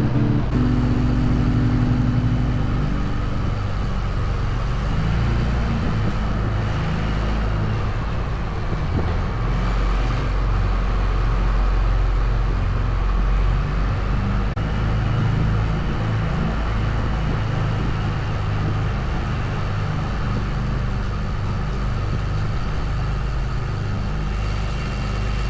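Cummins-diesel-swapped Ram 1500 truck driving steadily, a continuous engine and road rumble with a faint wavering whine above it.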